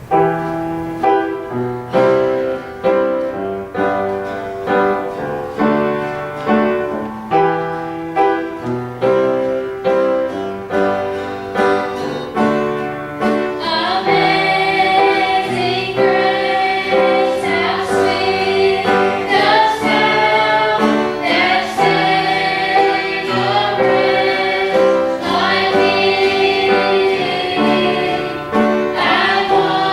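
Gospel music: a piano plays an introduction of struck chords, then a choir of singers comes in about halfway through and sings over the piano accompaniment.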